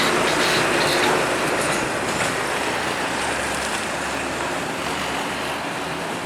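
A heavy truck passing close by, its tyre and engine noise a steady rush that slowly fades as it moves away.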